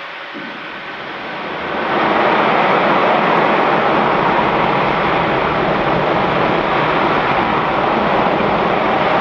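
LE-9 liquid-hydrogen/liquid-oxygen rocket engine firing on a test stand, heard from afar: a loud, steady roar that swells up over about two seconds near the start and then holds.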